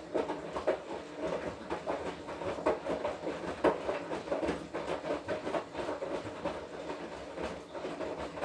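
Washing machine drum turning in the wash cycle, with laundry and water tumbling in irregular knocks and splashes over the motor's hum.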